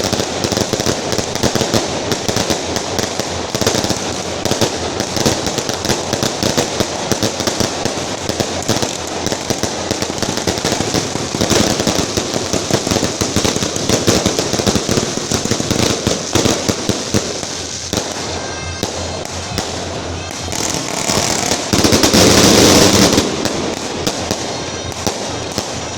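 A long string of firecrackers laid out on the road as a firecracker carpet, going off in a dense rapid crackle that thins out past the middle, with a louder burst near the end.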